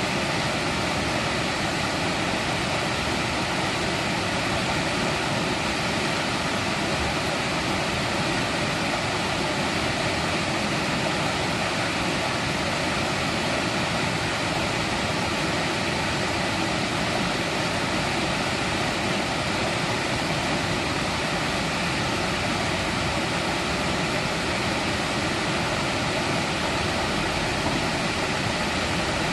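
Mountain valley stream flowing steadily: a constant, even rush of water.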